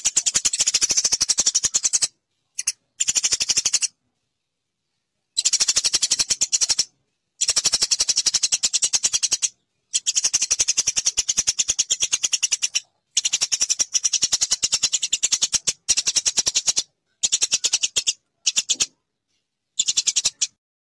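Eurasian tree sparrows chattering in very rapid, high-pitched chirps, many a second. The chirps come in bursts of one to three seconds broken by short gaps of silence.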